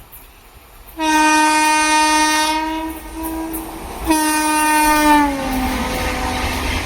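Locomotive horn on an Indian Railways train sounding twice, a long blast then a shorter one whose pitch falls away as the train passes. The rumble of the train going by then builds up.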